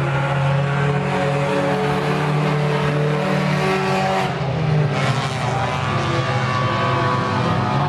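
A field of claimer stock cars running hard together around a short oval track, several engine notes overlapping with a steady roar of exhaust and tyres.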